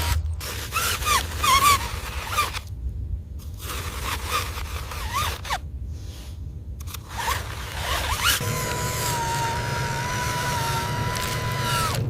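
Small electric motors of remote-control construction models whining, with scraping, in short cut-together clips. The early whines rise and fall briefly, and from about eight seconds a steady whine runs with a low hum.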